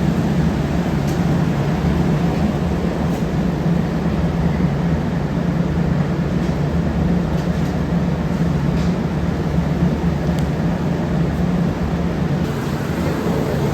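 Steady mechanical drone of workshop machinery with a constant low hum, and a few faint clicks scattered through it.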